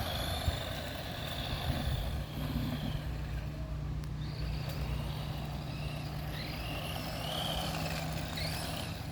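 Radio-controlled car driving, its motor whine rising and falling in short swoops over a steady low hum and rumble.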